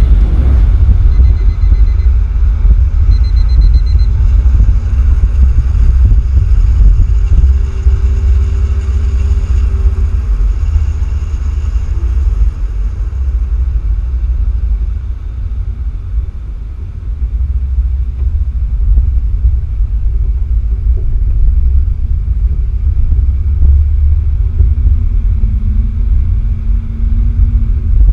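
Loud, steady low rumble of a vehicle in motion, with a faint steady whine above it; it eases briefly about two-thirds of the way through.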